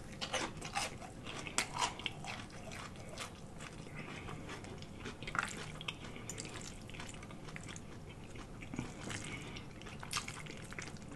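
Close-miked chewing of a bite of fried catfish: crisp crunching of the breading and wet mouth clicks, many small irregular crackles.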